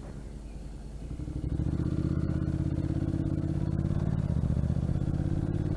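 Motorcycle engine running, getting louder about a second in as it pulls on and then holding a steady note.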